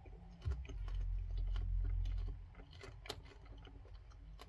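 A person chewing a mouthful of crunchy flavoured popcorn, with small irregular crunching clicks. About half a second in, a deep low rumble comes in and lasts about two seconds.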